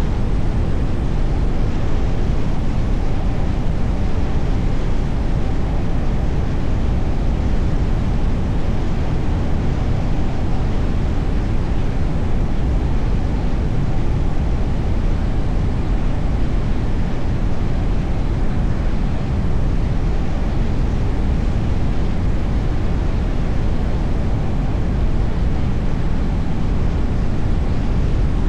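Steady low rumble of a car on the move: tyre and road noise with wind, with no distinct events standing out.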